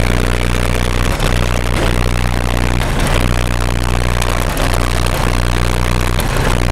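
Motor vehicle engine running steadily with a loud, deep drone, under a constant rush of noise.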